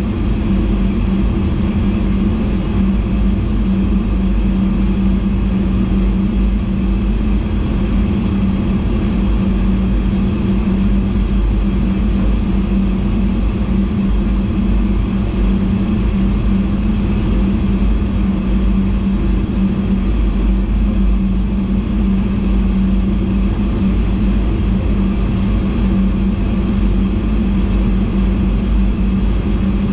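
VIRM double-deck electric intercity train running steadily at speed, heard from inside the driver's cab: an even rumble of wheels on track with a constant low hum.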